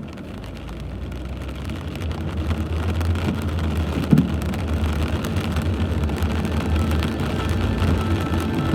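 Steady rain with a constant low rumble underneath, slowly growing louder.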